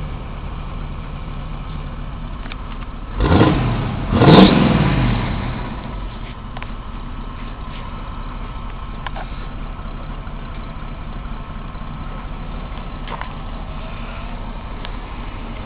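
Chevy G20 van's 305 small-block V8 idling through a MagnaFlow exhaust. It is blipped twice in quick succession, about three and four seconds in, each rev rising and falling back, then settles to a steady idle.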